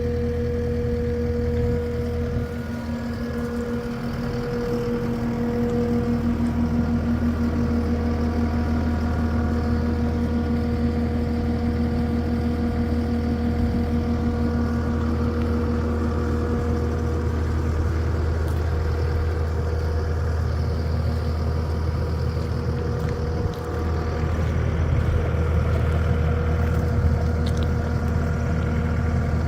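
A vehicle engine idling steadily, with no change in speed.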